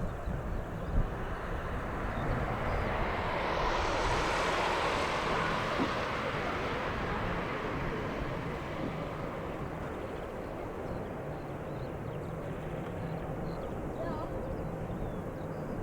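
A jet airliner passing by, its engine noise swelling to a peak about four seconds in and then slowly fading away.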